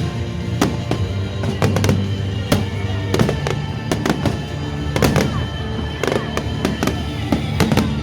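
Fireworks display: a rapid, irregular series of bangs from bursting shells, over steady music.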